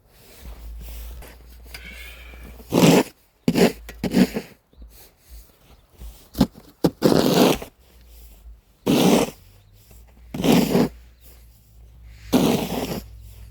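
Snow shovels scraping and pushing snow across a driveway in repeated strokes, one every second or two.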